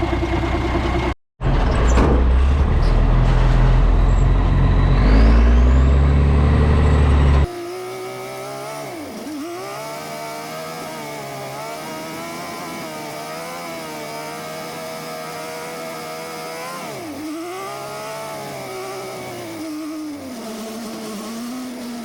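Diesel engine of a 6x6 dump truck running under load. For the first third it is a loud low rumble. After that the engine note is clearer, rising and falling in pitch with several quick dips, as when the revs drop between gear changes.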